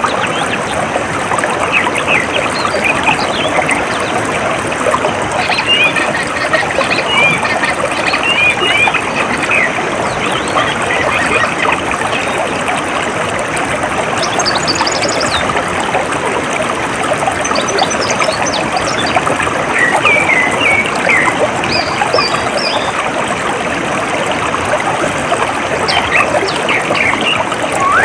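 Water running and trickling steadily, with birds chirping and trilling over it in short, scattered phrases.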